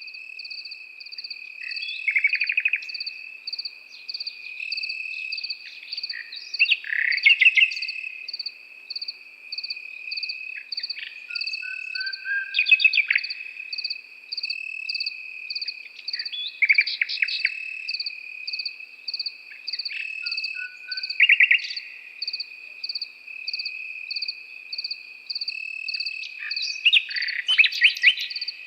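Nightingale singing short, loud, rapid trilled phrases separated by pauses of a few seconds, over crickets: one keeps up a continuous high trill while another chirps in an even, steady rhythm above it.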